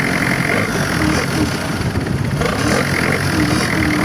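Boat engine running steadily while the boat is underway, loud and unbroken, over a hiss of wind and water.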